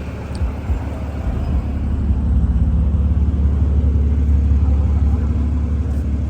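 Low car rumble of engine and road drone, heard from inside a moving car, swelling about a second and a half in and then holding steady.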